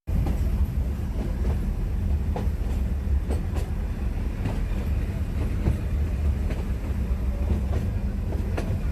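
Nilgiri Mountain Railway train running on the track: a steady low rumble with irregular clicks and knocks from the wheels and carriages.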